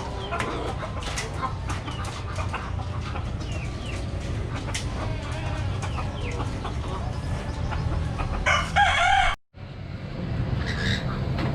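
Budgerigars chirping and chattering in many short calls over a steady low hum. Near the end there is one louder, longer call, and then the sound cuts out for a moment.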